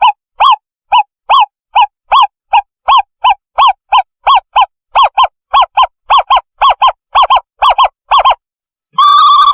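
Owl call played back as a bird-trapping lure: a long series of short hooting notes that come faster and faster, then after a brief pause a continuous wavering trill begins near the end.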